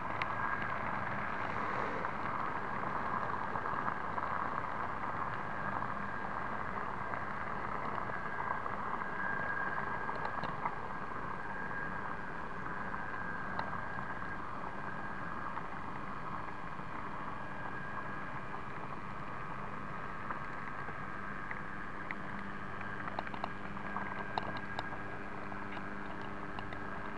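A small 009 narrow gauge model train running along its track: a steady whirring with a thin held whine, and a few faint clicks in the second half.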